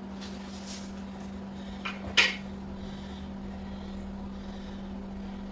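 A few light clicks and one sharper clunk about two seconds in, as the motorcycle's rear wheel and axle are worked into line. A steady low hum runs underneath.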